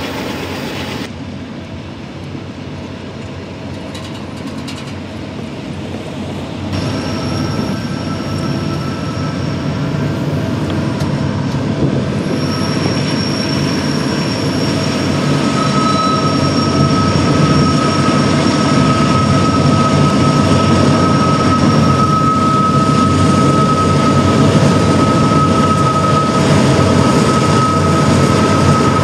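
Union Pacific diesel locomotives hauling a loaded coal train up a grade. The engines' rumble grows steadily louder as the train approaches, and a steady high-pitched whine sets in and holds through the second half.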